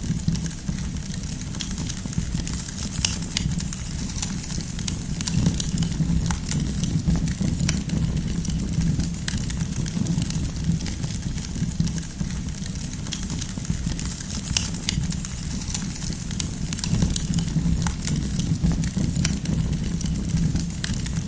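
Campfire of burning firewood crackling, with frequent small sharp pops over a low steady rumble.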